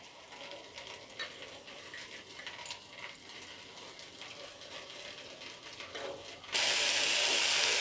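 A few faint clicks and rattles as handfuls of dry split peas drop into a pot of rice and lentils. About six and a half seconds in, a steady loud sizzle starts abruptly: rice and dal frying in the pot.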